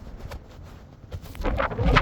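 Gusty storm wind buffeting the microphone. A low, uneven rumble surges loud about two-thirds of the way in.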